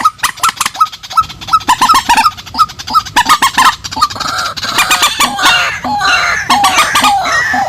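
Swamphens and white-breasted waterhens calling: a rapid run of repeated short honking, cackling notes, several per second, growing denser and more overlapped from about three seconds in.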